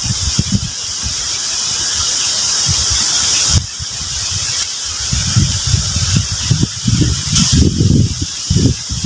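Strong wind gusting over the microphone, with uneven low buffeting that surges and dies away, under a steady high-pitched hiss. The wind drops suddenly a little past a third of the way in, then gusts hard again.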